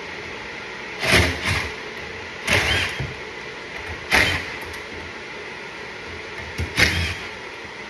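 Handheld power drill running in four short bursts, each spinning up and winding down in about half a second, as when driving fasteners.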